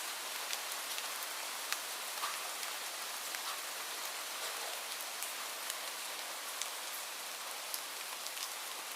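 Steady rain falling, an even hiss with scattered close drops ticking sharply on a surface.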